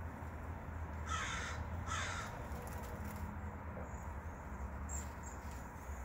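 Two harsh bird calls, each about half a second long and less than a second apart, about a second in; later a few faint, thin, high calls from the flock of cedar waxwings feeding in the shrub, over a steady low hum.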